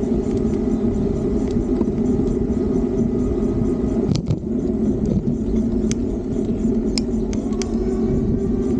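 Steady rumble of wind and road noise from riding an electric bike, with a few sharp clicks or rattles about four seconds in and again near the end.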